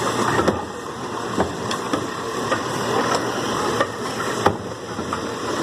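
Garbage truck engine running, with sharp knocks and clanks at irregular intervals, roughly one every half second to second.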